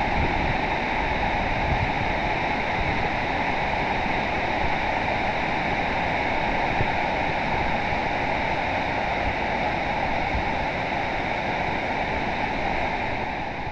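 Steady rush of floodwater spilling over the crest of Howden Dam in overflow.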